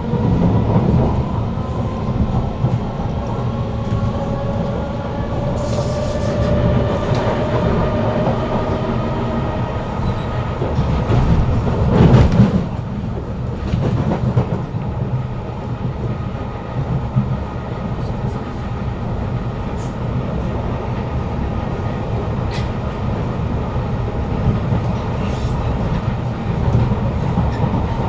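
Kawasaki C151 metro train's GTO-VVVF traction motors whining in several rising tones as the train accelerates, levelling into a steady run over continuous wheel and track rumble. There is a brief loud rush about twelve seconds in.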